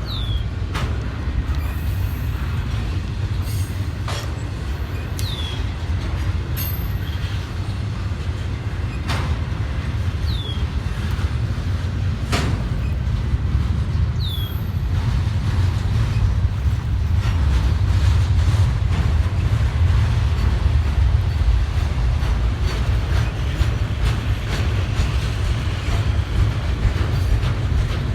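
CSX intermodal freight train rolling slowly past: a steady low rumble of wheels on rail, with scattered clicks and a few brief high squeaks a few seconds apart.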